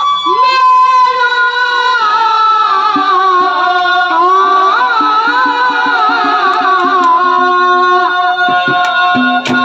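Harmonium playing a wavering high melody over held reed notes, with a hand drum keeping a steady beat.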